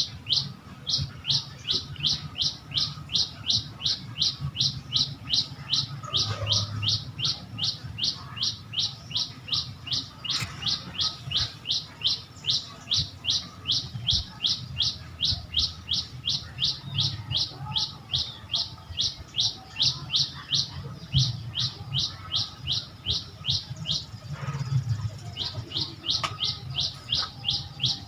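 A bird repeating one short, high call over and over, each note sweeping downward, at about two calls a second with a brief pause near the end. A steady low hum runs underneath.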